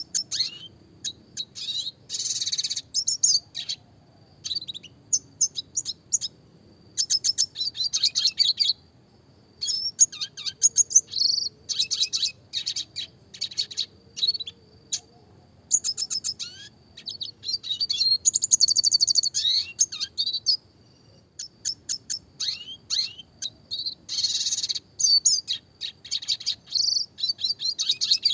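Red siskin (Spinus cucullatus) singing: fast, high twittering phrases with rolled trills and sharp notes, in bursts of a second or few separated by short pauses.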